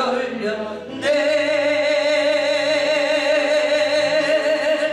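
Worship singing: a singer draws out the word 열렸네 ("it has opened") on one long held note with vibrato, beginning about a second in, over the song's accompaniment.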